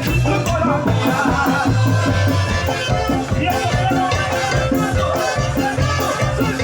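Live tropical dance band playing an instrumental passage with bass, brass and shaker percussion over a steady beat.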